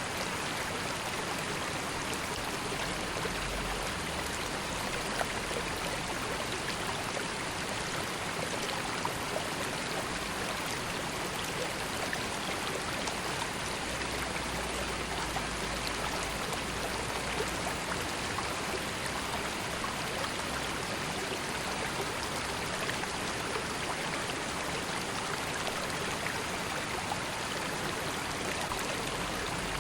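A river flowing steadily: an even rush of running water with small splashes and trickles scattered through it.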